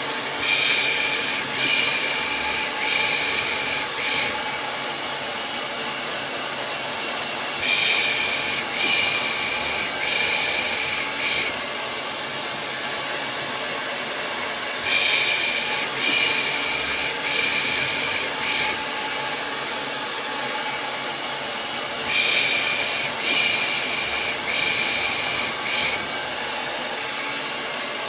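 Hair dryer running steadily, with a person's soothing 'pış pış' shushing over it: four short shushes about a second apart, repeated in sets roughly every seven seconds. This is white noise for lulling a baby to sleep.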